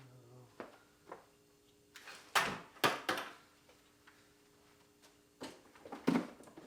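Tools and items being handled and set down on and around a toolbox: a series of short knocks and clunks, the loudest a pair about two and a half to three seconds in and another near the end.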